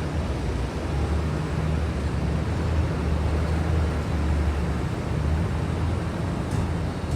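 Steady low rumble of a jet airliner's engines.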